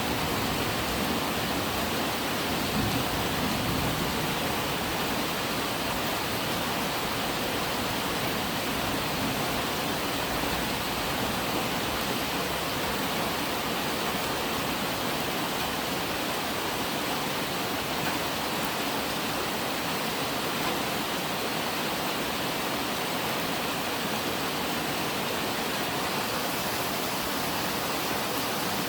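Steady rain falling without letup. A low thunder rumble dies away in the first few seconds.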